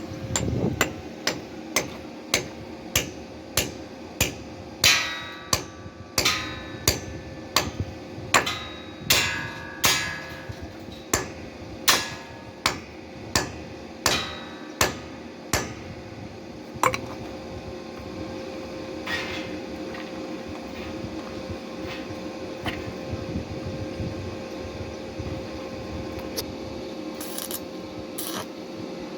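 Repeated hard strikes, like hammering, each ringing briefly, at a little under two blows a second. They stop about halfway through, leaving a steady hum with a few faint knocks.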